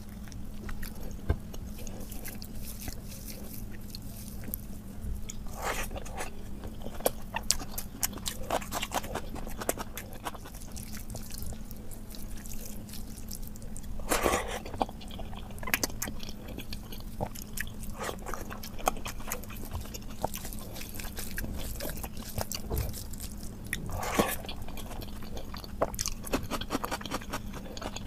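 Close-up eating sounds of a man eating rice with dal, aloo bharta and omelette by hand: steady wet chewing and small mouth clicks, with a few louder, longer mouth noises about 6, 14 and 24 seconds in. A faint steady hum runs underneath.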